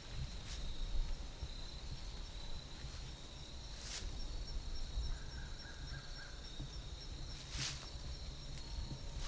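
Outdoor insect chorus: a steady high-pitched drone of crickets or similar insects over a low rumble. Three short, sharp high sounds cut through, about half a second, four seconds and seven and a half seconds in.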